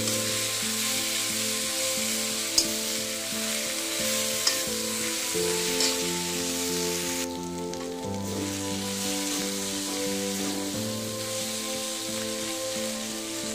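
Cluster beans stir-frying in an aluminium kadhai: a steady sizzle, with a metal spatula scraping and knocking against the pan a few times in the first half. A simple background melody plays underneath.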